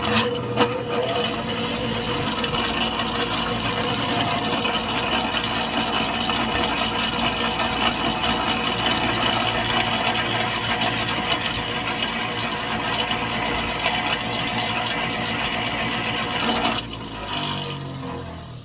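Bench grinder with a pink aluminum oxide wheel running while a dull tool edge is honed against it, a steady grinding noise over the motor's hum. Near the end the motor is switched off and winds down, its pitch falling as it fades.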